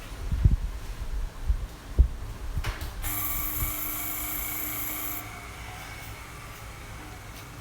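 A few low knocks and thumps of handling, then the small electric motor of a nipper-sharpening machine starts with a high whine about three seconds in. It runs for about two seconds, then drops away to a faint tone that fades out.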